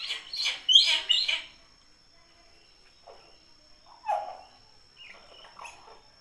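Common hill myna calling: a quick run of four loud, sharp calls in the first second and a half, then scattered quieter calls, the strongest about four seconds in.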